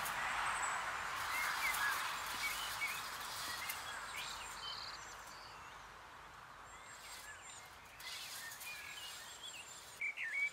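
Small birds chirping here and there, short twittering calls over a rush of outdoor background noise that fades away over the first five seconds. A few faint clicks near the end.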